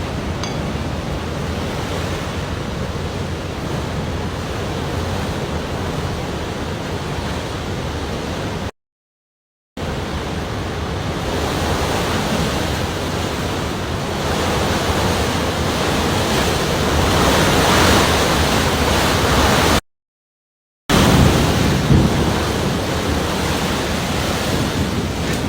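Hurricane-force storm noise: a steady, loud rush of wind and water with no distinct events. It breaks off twice into dead silence, about nine and twenty seconds in, and swells a little in the middle stretch.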